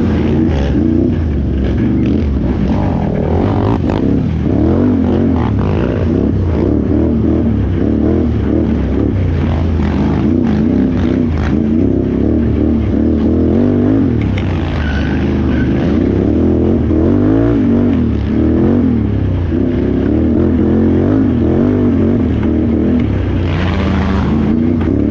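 Can-Am Renegade XXC 1000R ATV's V-twin engine running hard in a race, revs climbing and dropping constantly as the throttle is worked. Brief bursts of hiss come about halfway through and again near the end.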